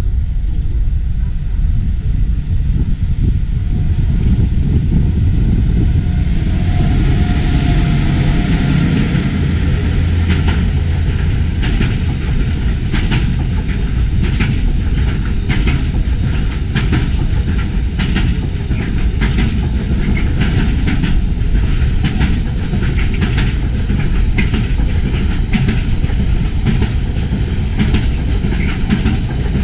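Diesel train running with a heavy, steady low rumble. From about ten seconds in, its wheels clack over rail joints again and again.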